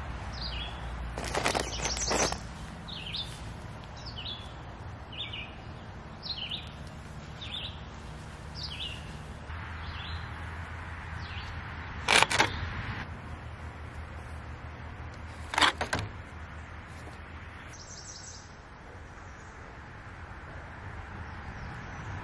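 A songbird repeats a short, high, falling chirp over and over, about one or two a second, stopping about nine seconds in. There are brief rustling scrapes, louder than the bird, near the start and at about 12 and 16 seconds in.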